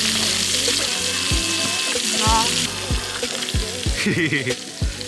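Food sizzling as it fries, a loud hiss that stops about two and a half seconds in. Background music with a steady beat plays throughout.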